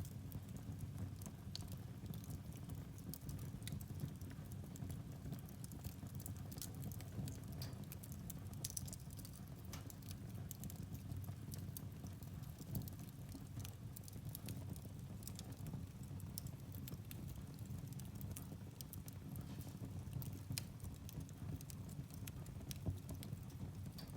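Firewood burning in a fireplace: irregular sharp crackles and pops over a steady low rumble of the fire.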